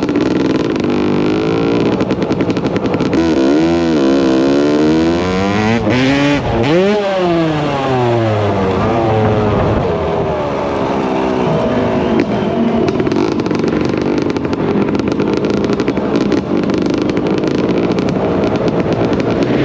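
Dirt bike engines revving, their pitch rising and falling as the throttle is worked, with the biggest swing about six to eight seconds in.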